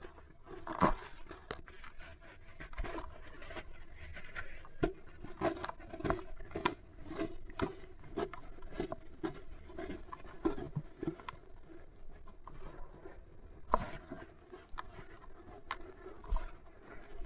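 Something dry and brittle being crumbled and crushed, giving irregular crackles and crunches throughout.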